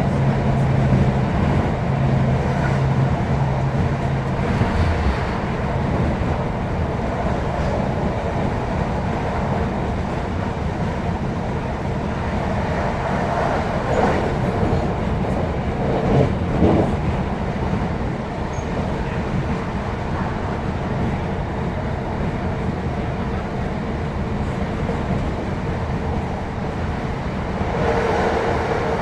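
Class 156 Super Sprinter diesel multiple unit running along the line, heard from inside the carriage: a steady rumble of wheels on rail under the hum of its underfloor Cummins six-cylinder diesel. The steady engine note drops away about four seconds in, a few louder knocks come through in the middle, and a steadier, higher tone comes in near the end.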